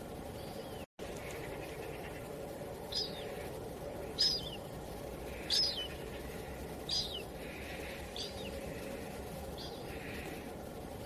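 Steady low wind-like ambience with a small bird repeating a short high chirp about every second and a half. The sound cuts out completely for a moment just under a second in.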